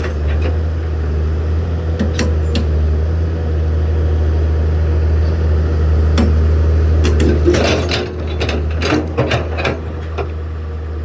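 Heavy machinery running with a steady low engine drone, and a run of sharp metallic knocks and clanks between about seven and ten seconds in.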